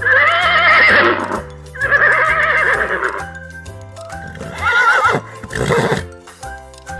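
Horse whinnying three times with a quavering pitch, the first call the longest, over background music with steady bass notes.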